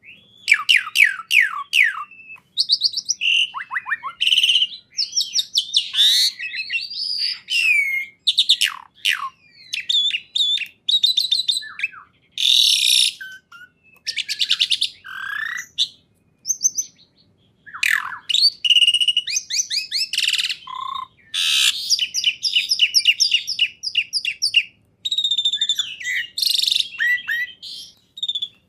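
A songbird singing a long, varied song of rapid trills, quick downward-sweeping notes and sharp chips, in bursts with brief pauses.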